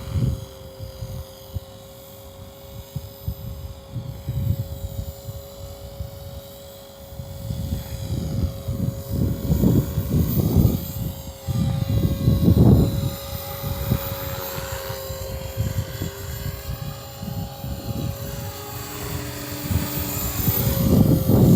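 Walkera V450D03 electric RC helicopter in flight, its motor and rotor giving a steady whine, with gusts of wind rumbling on the microphone, heavier from about a third of the way in. The helicopter is fighting gusty wind that pitches its blades.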